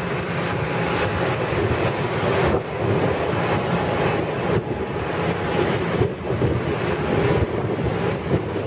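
Bombardier M7 electric multiple unit train moving along the platform: a steady rumble of wheels on rail and rushing air, with wind buffeting the microphone and a faint high whine over the first two seconds or so.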